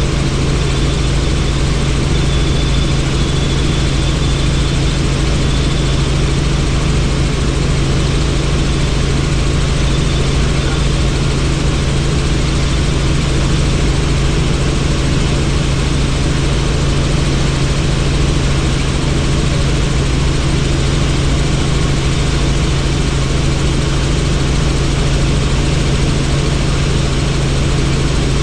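Helicopter in flight: a steady, unbroken drone of rotor and engine with a low hum, mixed with rushing air noise.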